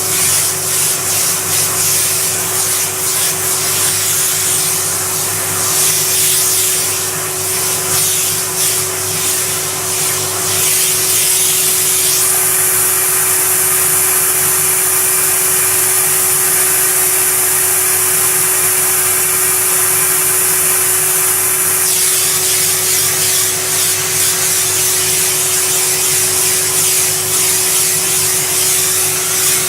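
A vacuum cleaner motor running steadily with a constant whine and a rush of air. About twelve seconds in, the airflow hiss turns brighter and smoother for some ten seconds, then goes back to its rougher sound.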